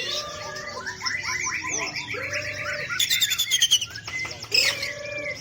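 Several songbirds singing at once: overlapping chirps, trills and whistles, with a louder, faster burst of song about three seconds in.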